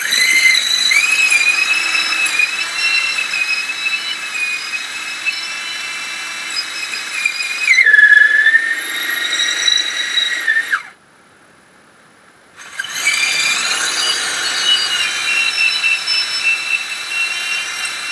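Electric power tool whining at high pitch as it cuts into a clamped block of wood. The pitch sags for a couple of seconds under load, the tool stops about 11 s in, then starts again about two seconds later and keeps cutting.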